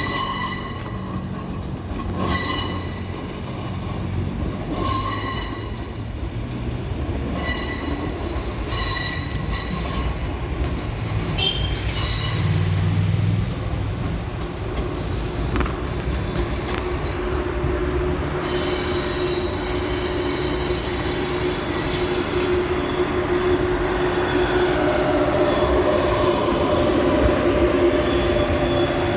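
Train moving through a station with its wheels squealing on the rails. The squeal comes in short, repeated bursts at first, then settles into one steady squeal over the rumble of the train.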